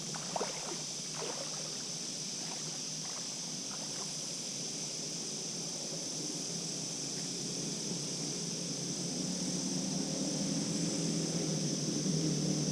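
Outdoor ambience: a steady high insect drone, with a low engine hum that grows louder over the last few seconds.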